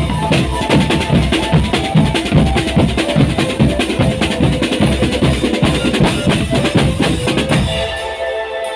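Marching drum band playing a fast beat on bass and snare drums with a melody line over it. The drums stop near the end, leaving held, steady notes of other music.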